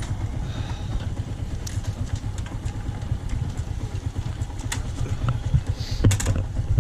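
Motorbike engine running steadily while riding, a continuous low rumble, with a few sharp clicks near the end.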